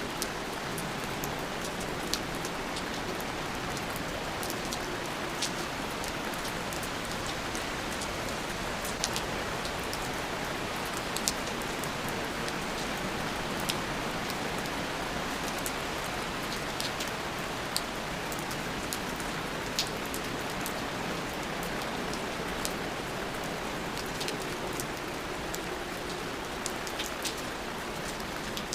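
Steady rain falling, a constant hiss with scattered sharp drips and patters landing on a surface.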